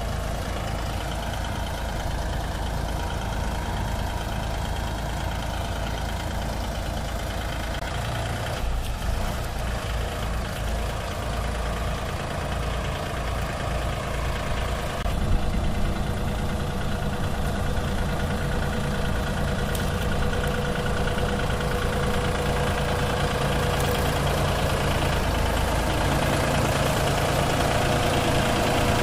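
Tractor diesel engine running continuously. It grows louder with a brief jolt about halfway through, then swells gradually toward the end, as if working under load.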